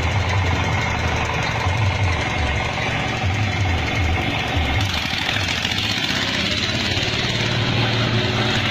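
An engine idling steadily with a low, pulsing hum, over a hiss that grows brighter about five seconds in.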